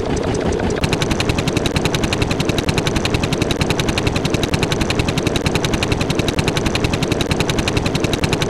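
Rapid, evenly spaced bangs in a long continuous string, like automatic gunfire from a machine gun.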